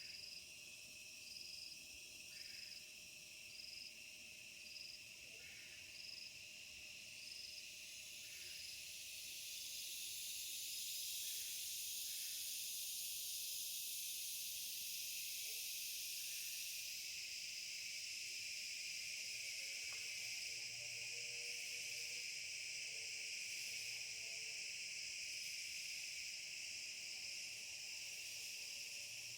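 Insects chorusing: a steady, high-pitched buzzing with a short chirp repeating about once a second at first, the chorus swelling louder about ten seconds in.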